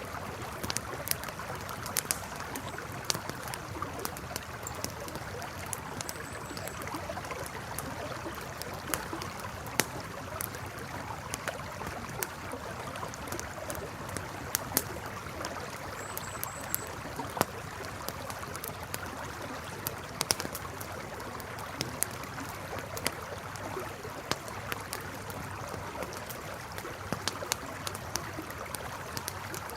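A river running steadily, with a wood campfire crackling and popping in sharp, irregular clicks over it.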